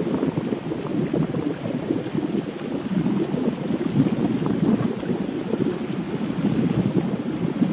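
Wind buffeting the camera's microphone: a steady, gusty rumble.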